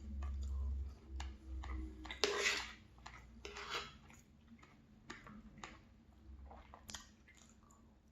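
A person chewing food close to the microphone, with wet mouth sounds and scattered short clicks.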